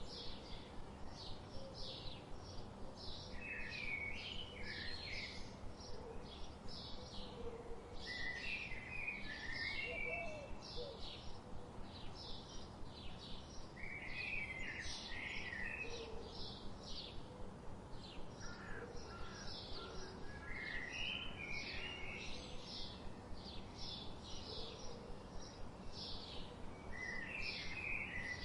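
Birds chirping: a rapid, steady run of short high chirps, a few a second, with lower warbling phrases breaking in every few seconds, over a faint steady hiss.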